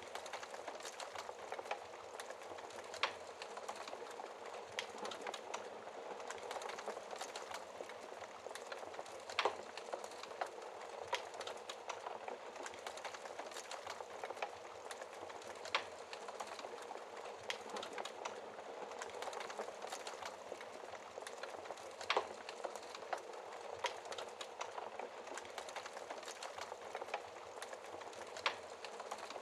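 Wood fire burning in a fireplace: a steady soft hiss with many small crackles, and a sharper pop about every six seconds.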